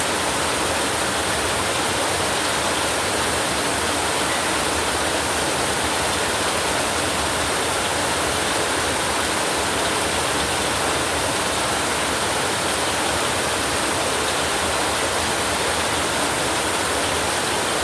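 Heavy rain on a tin roof: a steady, even hiss.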